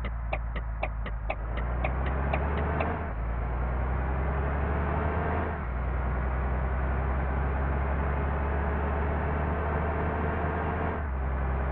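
Low, steady rumble of a large vehicle engine running. For the first three seconds it comes with a regular ticking of about four ticks a second.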